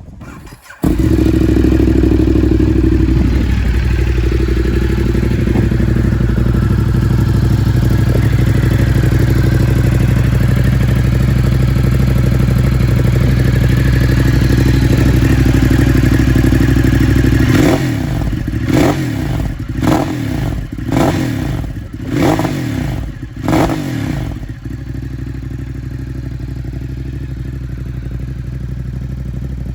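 Ducati Monster 1200S's L-twin engine breathing through a Termignoni exhaust. It catches just under a second in and settles into a steady, loud idle. It is then blipped about six times in quick succession, each rev rising and falling, before dropping back to a lower, quieter idle.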